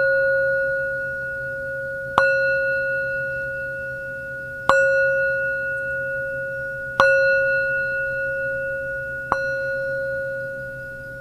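Singing bowl struck four times at an even pace, about every two and a half seconds, each strike ringing on with a steady low tone and a higher overtone and fading slowly until the next.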